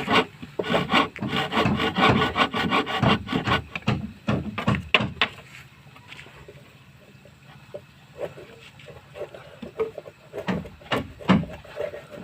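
A hand tool working wood in quick, rhythmic rubbing strokes for about five seconds, then stopping, followed by scattered light taps and a few knocks near the end.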